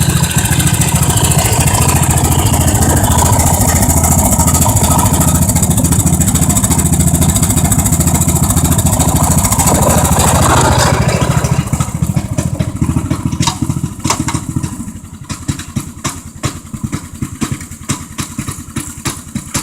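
Riding lawn tractor's small engine running steadily at high throttle, then throttled down about twelve seconds in to a quieter, slow, uneven idle.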